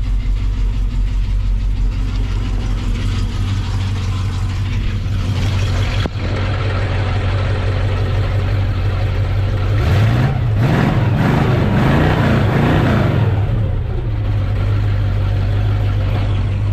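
1968 Ford Mustang's 302 V8 idling, revved once about ten seconds in and falling back to idle a few seconds later. Mixed in is a noise from the alternator pulley, which is visibly moving and needs replacing.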